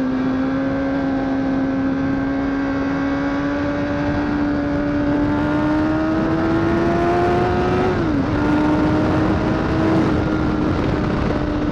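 Honda CBR1000RR's inline-four engine running under throttle while riding, with wind rush. Its pitch climbs slowly for about eight seconds, dips sharply, then holds steady.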